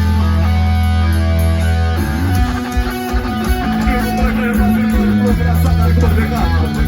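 Heavy metal band playing live, an instrumental passage of electric guitar riffing over held bass notes, with no vocals.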